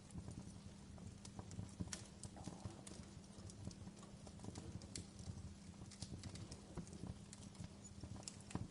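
Wood fire crackling: irregular sharp pops and snaps from burning logs, several a second, over a low steady rumble of the flames.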